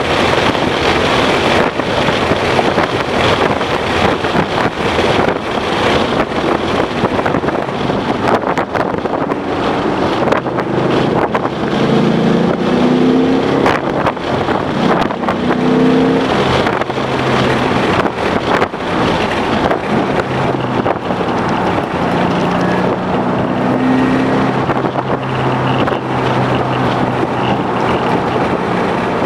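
2011 Ford Mustang GT's 5.0-litre V8 being driven hard on a race track, heard from onboard under heavy wind and road noise with frequent knocks and bumps. The engine note comes through in the middle and again near the end, stepping up and down in pitch as the car accelerates and shifts.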